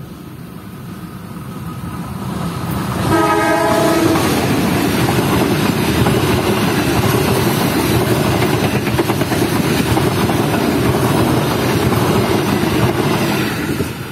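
Indonesian KAI diesel locomotive sounds one short horn blast about three seconds in. The locomotive and its passenger coaches then pass close by with a loud steady rumble and clatter of wheels on the rails, which eases off near the end.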